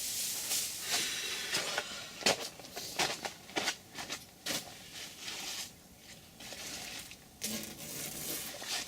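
Masking tape and masking paper being peeled off a freshly sprayed panel and crumpled, in irregular crackling, tearing rustles.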